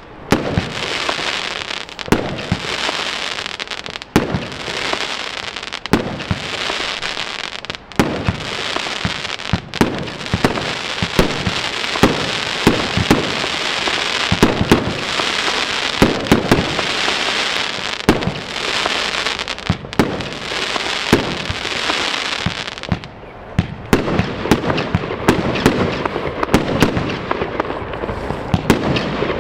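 A 75-shot, 30 mm Lesli 'Massive Escape' firework cake firing shot after shot, with a loud bang about every second and a dense hiss of bursting effects between them. Near the end the hiss thins out and only separate sharp bangs remain.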